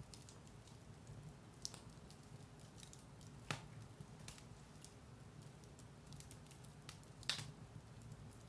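Firewood burning in a fireplace: scattered soft crackles and ticks, with two louder pops, one about three and a half seconds in and one near the end, over a low steady rumble of the fire.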